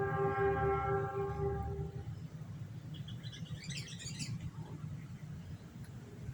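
A horn sounds one steady held tone for about two seconds, then a small bird gives a quick burst of high twittering about three to four seconds in, over a low steady rumble.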